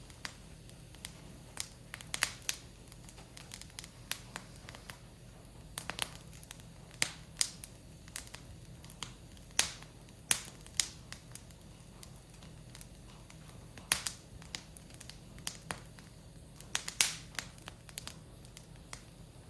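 Wood fire burning, crackling with irregular sharp pops and snaps, a few every couple of seconds.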